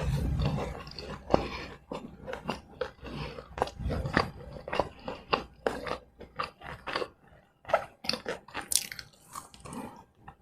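Close-miked eating of fried snacks: irregular crunches and chewing, with many short crisp clicks and wet mouth sounds.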